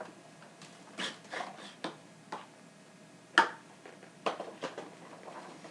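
A scatter of short plastic clicks and knocks from handling the vacuum's hose and attachments while the machine is switched off, the loudest about three and a half seconds in.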